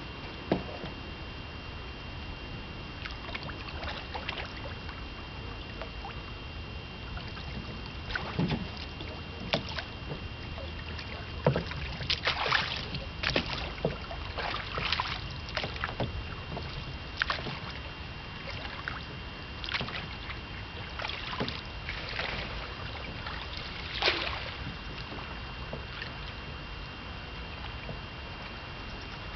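A small boat on the water: irregular splashes and knocks, thickest through the middle, over a steady low rumble and a faint steady high whine.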